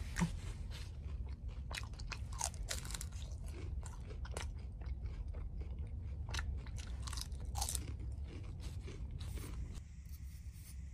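Close-up chewing and crunching of a crisp deep-fried glutinous rice and shepherd's purse cake, with many small crisp crunches as it is bitten and chewed. The crunching stops near the end.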